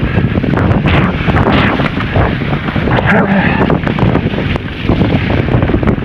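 Wind buffeting the camera microphone during a mountain-bike ride, with many quick knocks and rattles from the bike on a rough trail.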